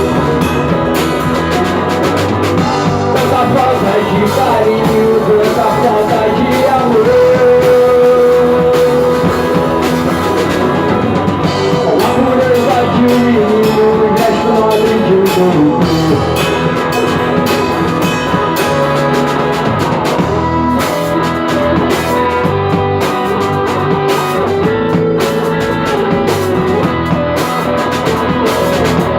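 Rock-style band music with guitar and drum kit; a melodic line glides and bends in pitch over the steady accompaniment.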